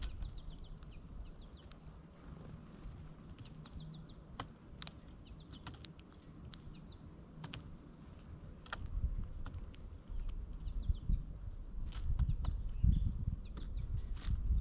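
Small birds calling: short high notes in quick runs, repeated several times, with scattered sharp taps and a low rumble that grows louder near the end.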